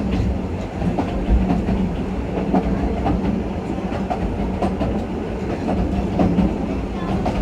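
Narrow-gauge train running, heard from aboard a carriage: a steady rumble of the wheels on the rails with scattered clickety-clack.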